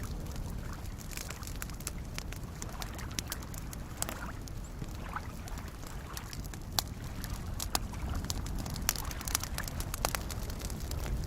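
Campfire crackling, with sharp pops that come louder and more often in the second half, over a steady low wash of small lake waves lapping.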